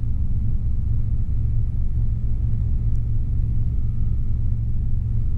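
Robinson R22 helicopter's engine and rotors running steadily in a hover, heard from the cockpit as a loud, even low drone.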